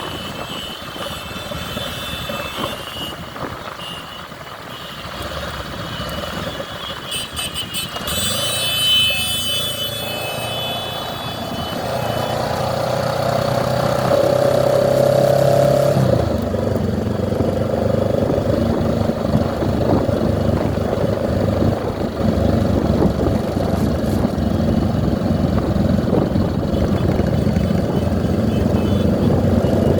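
Motorcycle engines running on the move in a large motorcade, with high beeping tones in the first ten seconds. From about twelve seconds in, a steady pitched hum comes in and the sound grows louder.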